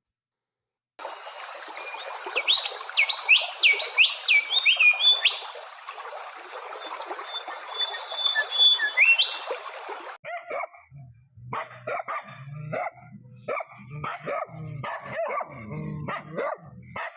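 A songbird singing quick whistled phrases over a steady hiss. About ten seconds in it gives way to a dog barking repeatedly in short calls.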